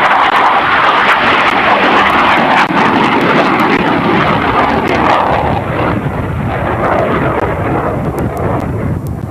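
MiG-21 jet fighter passing by, its jet noise loudest at the start, then fading and dropping lower in pitch from about five seconds in as it moves away.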